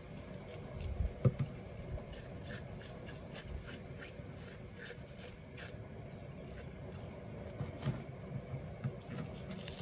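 Scattered light clicks and scrapes, with a louder knock about a second in.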